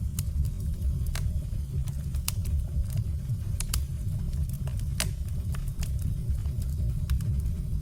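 Firewood burning: a steady low rumble of the fire with sharp crackles and pops from the logs, scattered irregularly about once or twice a second.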